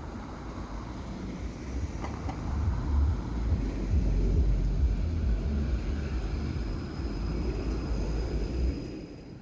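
An electric tram running past: a low rolling rumble with a faint high whine in its second half, fading near the end.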